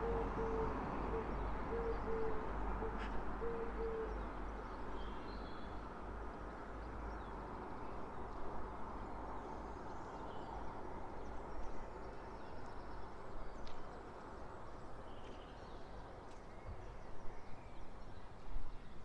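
A bird gives a run of short, low hooting coos over the first four seconds or so. Under it a broad traffic hum from a passing vehicle slowly fades, and a few faint high bird chirps follow.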